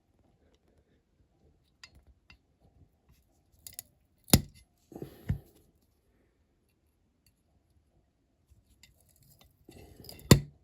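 A pair of cutters snipping sticks down to length: three sharp snaps, two close together in the middle and the loudest near the end, with light clicks of handling between.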